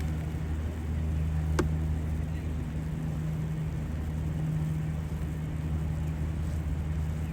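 Steady low hum of a running vehicle engine on a city street, with one sharp click about a second and a half in.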